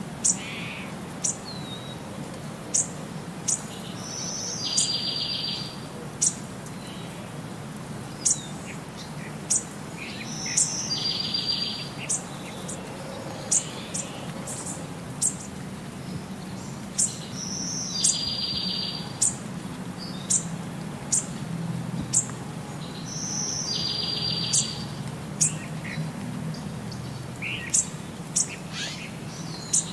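Bird calls: sharp high chirps scattered through, and about every six seconds a short note followed by a buzzy trill about a second long, the same sequence repeating like a loop over a steady low background noise.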